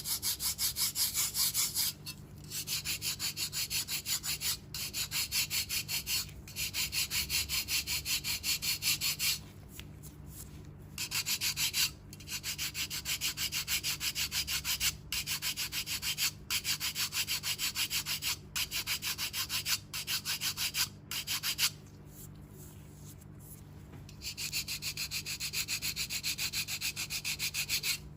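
A foot file rasping over hard, dry skin on the sole, in runs of quick back-and-forth strokes with short pauses between them: calluses being filed down.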